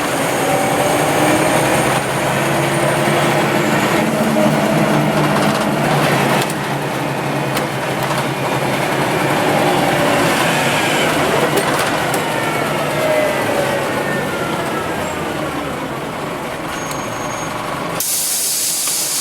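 Scania OmniLink CL94UB city bus under way, its engine and drivetrain whine rising and falling in pitch as it speeds up and slows down. Near the end the engine note drops away and a sudden loud hiss of air starts.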